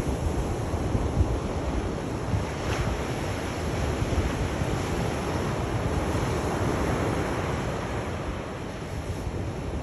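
Sea waves washing onto the shore in a continuous surf, swelling a little past the middle and easing slightly near the end.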